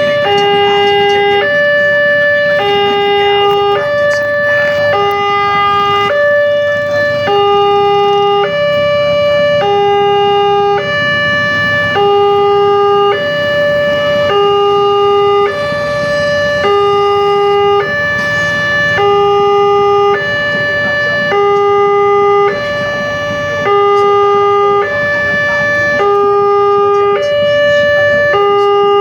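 Railway level-crossing warning alarm sounding a steady two-tone hi-lo signal, a lower and a higher tone alternating about every three-quarters of a second, the sign that the gate is closing for an approaching train.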